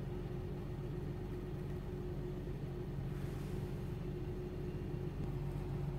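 A car engine idling, a low steady hum.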